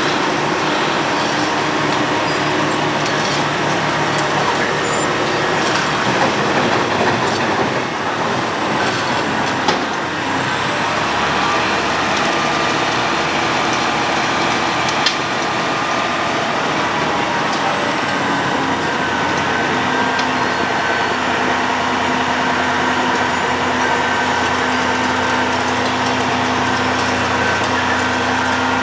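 Road planer (cold milling machine) running at work: a loud, steady mechanical noise with engine tones that shift pitch a few times.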